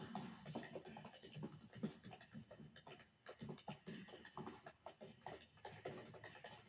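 Tap shoes clicking on the floor in a quick, irregular run of many short taps.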